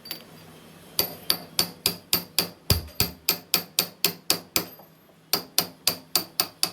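Hand hammer striking metal in a steady run of blows, about four a second, each with a short metallic ring, pausing briefly near the middle before carrying on.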